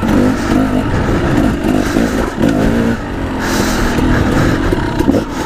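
KTM 300 two-stroke dirt bike engine revving hard and unevenly, its pitch rising and falling with the throttle as the bike climbs over rocks, with a few short knocks.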